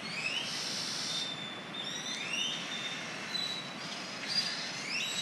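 Many birds calling together at dusk, a chorus of repeated rising whistled notes, over the steady hiss of surf breaking on the shore.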